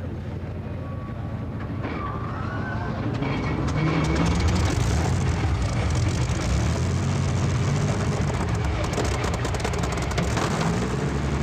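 Competition pulling tractor's engine running hard, growing louder over the first four seconds and then holding steady and loud.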